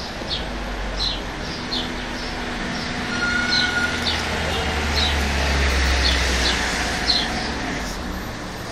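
Small birds chirping, short high notes repeated every half second or so, over the low rumble of a passing vehicle that swells in the middle and then fades.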